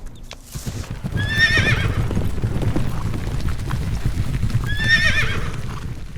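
Horse galloping, its hooves drumming in a fast run of low thuds, with two short high whinnies, one about a second in and one near five seconds in.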